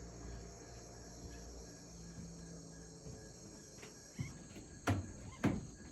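Faint steady chirring of crickets and other insects in the evening air after a thunderstorm. Two short sharp knocks about half a second apart near the end.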